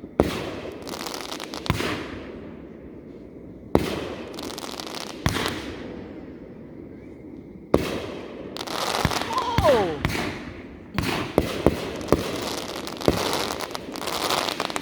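Fireworks going off: sharp bangs a second or two apart, each trailing into crackling. Near the middle there is a short falling whistle, and the bangs come faster toward the end.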